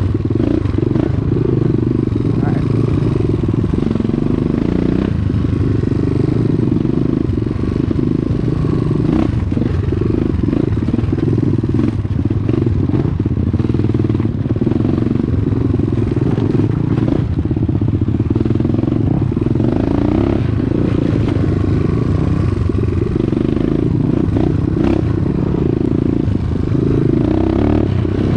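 Dirt bike engine running steadily under way, with occasional clatter.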